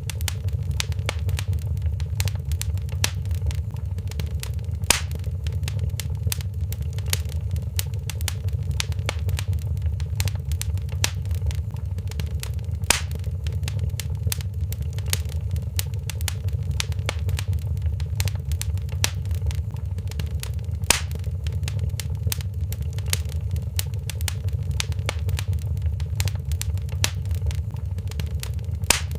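A wood fire crackling in a fireplace: a dense run of small pops and ticks over a steady low rumble, with a louder snap about every eight seconds.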